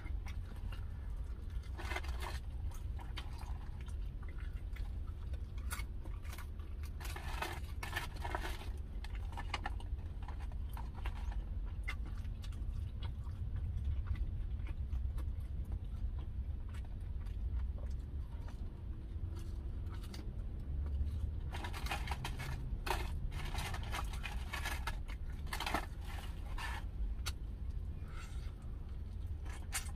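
Close-miked chewing and wet mouth sounds of someone eating smoked barbecue chicken wings, with clusters of crunches and clicks about two seconds in, around seven to eight seconds, and from about twenty-two to twenty-seven seconds. A steady low rumble sits underneath throughout.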